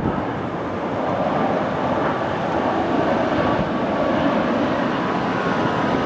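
Airbus A330 during landing: a steady roar of jet engines and rushing air, with faint whining tones.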